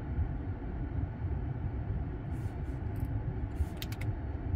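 2018 Mercedes-AMG C43's twin-turbo V6 idling, a steady low rumble heard from inside the cabin. A few light clicks from the dashboard controls come in the second half.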